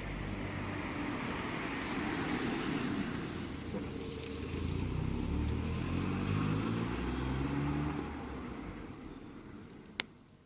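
A motor vehicle's engine going by, growing louder, its pitch shifting up and down, then fading away. A single sharp click near the end.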